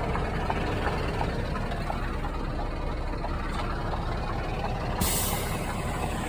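Scania truck's diesel engine idling with a steady rumble and light ticking. About five seconds in comes a sudden hiss of released air.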